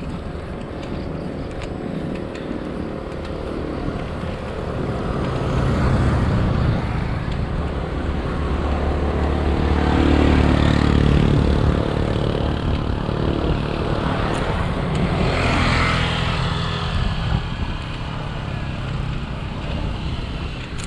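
Road noise heard while cycling: a rushing wind on an action camera's microphone, with motor-vehicle engine sound swelling and fading in several waves. It is loudest about halfway through.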